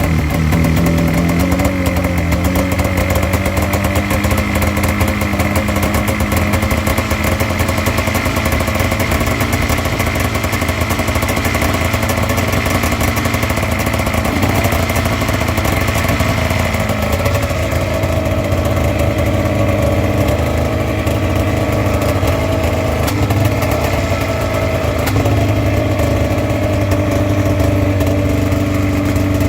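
Snowmobile engine idling steadily, its pitch wavering briefly near the start and shifting again a little past halfway.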